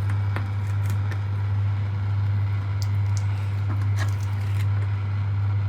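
A small knife cutting a sausage on a board, giving scattered light clicks and knocks, over a steady low hum.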